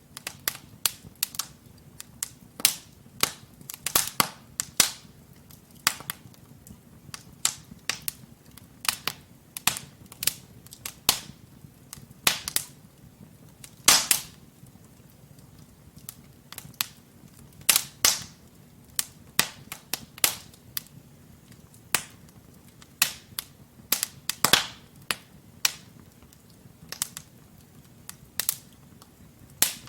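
Wood logs burning in a fireplace, crackling with irregular sharp pops and snaps, several a second, a few much louder pops standing out, over a faint low rumble of the flames.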